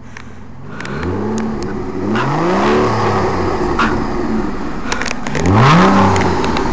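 Aston Martin DB9's 6.0-litre V12 revved three times while stationary, each blip rising sharply in pitch and falling back to idle, the third one the loudest.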